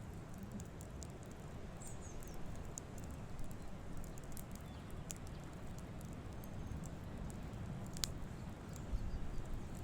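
Campfire crackling: scattered small pops and snaps, with one sharper pop about eight seconds in, over a low steady rumble.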